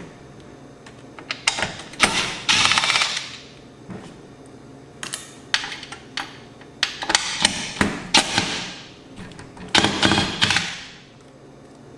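Several bursts of rapid clicking and rattling, each about a second long, with sharp single clicks between, from hands and tools working the wiring and hardware on the AV receiver's power transformer inside its metal chassis.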